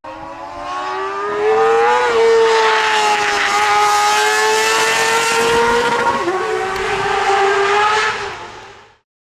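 Kawasaki ZX-4R's inline-four running at high revs through a TRICKSTAR full-titanium down-type IKAZUCHI exhaust. The pitch climbs over the first two seconds, then holds high with a brief dip about six seconds in, and fades out near the end.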